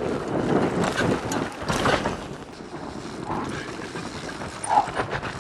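Mountain bike racing down a rocky, dusty trail: tyres and chassis rattling and crunching over rocks, with wind on the microphone. A couple of brief shouts come about three and five seconds in.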